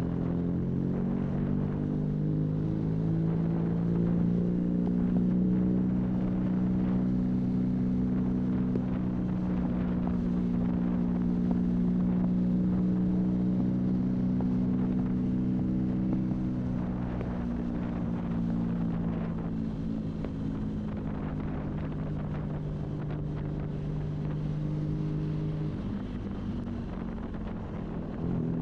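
BMW R nineT's boxer twin engine with a high-mounted Arrow exhaust, pulling under way. Its pitch climbs a little over the first few seconds, holds steady, and eases off gradually in the second half. Wind buffets the microphone throughout.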